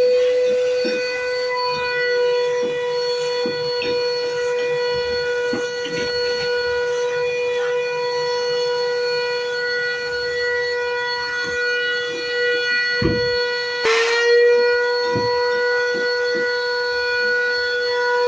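A machine's steady high-pitched whine. About 14 seconds in it clicks, and the pitch dips briefly, then climbs back. Faint knocks sound underneath.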